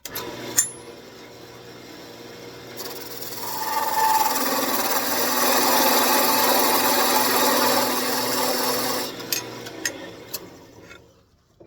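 Wood lathe running with a parting tool cutting into spinning end-grain walnut. The cutting noise builds, holds steady for several seconds and stops about nine seconds in, then the lathe's hum fades away.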